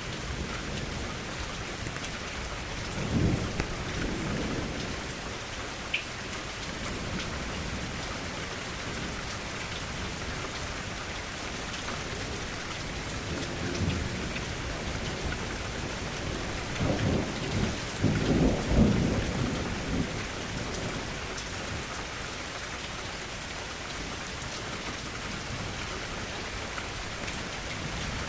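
Steady rain falling, with low rolls of thunder about three seconds in, a softer one around fourteen seconds, and the loudest, longest roll from about seventeen to twenty seconds in.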